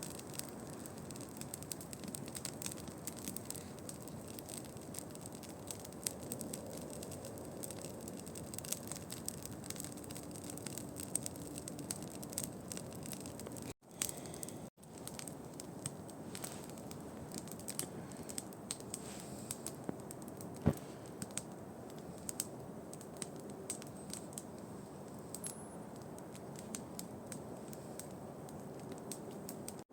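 Campfire of dry branches crackling, with frequent small pops and one louder pop about two-thirds through.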